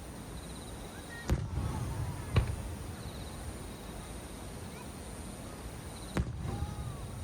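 Aerial firework shells bursting with three sharp bangs, about a second, two and a half seconds and six seconds in, each trailed by a low rumble. Insects chirp faintly and steadily behind them.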